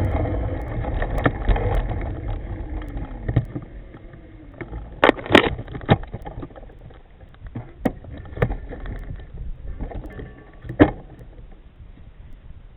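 Wind and road rumble from a moving electric scooter die away over the first few seconds as it slows to a stop, with a faint motor whine falling in pitch. Then come a handful of sharp clicks and knocks, the loudest about five seconds in and another near eleven seconds.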